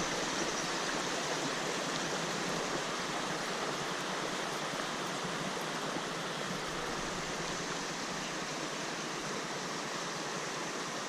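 Steady rushing water, a stream or small falls running on without change.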